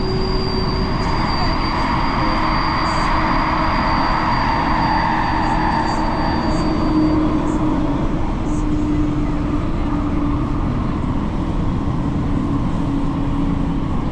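Elizabeth line Class 345 train running: a steady rumble of wheels on rails, with a thin high squeal that fades out about halfway through.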